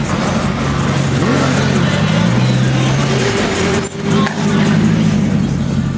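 Car engine running steadily, a low drone that shifts in pitch a little partway through.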